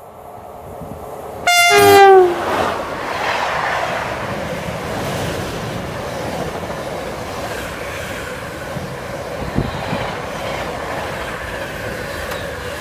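A freight train's locomotive sounds one short horn blast, less than a second long, whose pitch drops as it passes. Then the long train of container wagons rolls past with a steady rumble and rattle of wheels on rail, broken by a single clank near the end.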